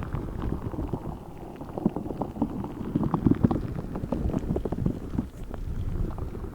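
A giant spiky ball filled with orbeez water beads being squeezed and squished close to the microphone, giving a dense, irregular run of small wet clicks and squelches.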